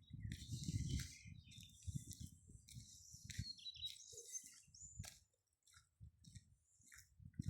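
Faint bird chirps and short whistled notes on and off, clearest around the middle, over soft low rustling and crunching close to the microphone.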